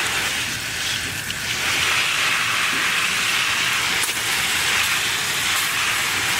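Garden hose spray nozzle watering plants: a steady hiss of water spraying onto leaves and soil.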